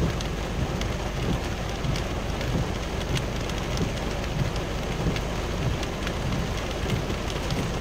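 Heavy rain pattering on a vehicle's windshield and roof, heard from inside the cabin: a steady hiss dotted with many small drop impacts, over a low steady rumble.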